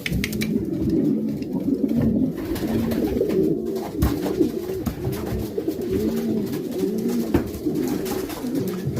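A loft full of racing pigeons cooing, many birds at once, their low, repeated coos overlapping continuously. A few short sharp taps come through the cooing.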